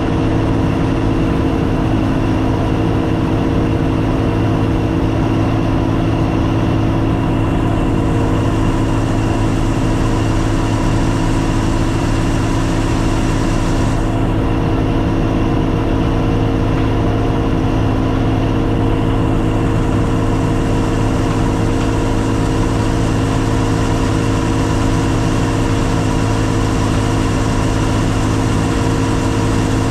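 Combine harvester's diesel engine running steadily at a constant speed, a loud even drone with no change in pitch.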